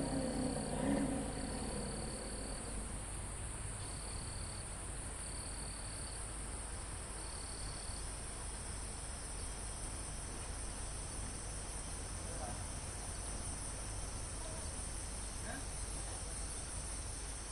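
Forest insect chorus: crickets and other insects keep up a steady, high-pitched trilling. A second insect calls in short trills, five of them in the first eight seconds, then stops. A low rumble fades out in the first couple of seconds.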